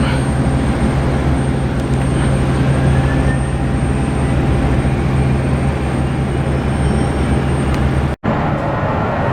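Aircraft engine noise, a steady low drone with a faint high whine, broken by a sudden brief dropout about eight seconds in, after which it carries on slightly changed.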